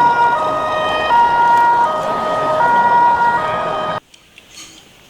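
Electronic two-tone siren alternating between a high and a low note about every three-quarters of a second, cutting off suddenly about four seconds in.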